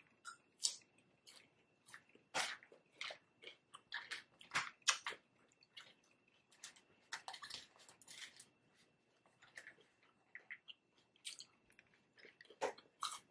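A person chewing food close to the microphone: soft, irregular crunches and wet mouth clicks, a few a second, with short pauses between.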